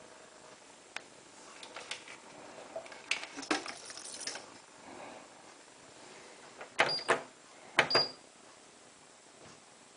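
Light clicks and knocks of handling at a Hotpoint WT960 washing machine, then two sharp button presses on its control panel, each followed by a short high beep.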